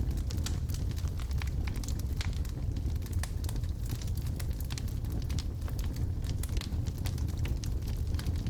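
Wood logs burning in a fireplace, crackling with frequent irregular pops and snaps over a steady low rumble of the fire.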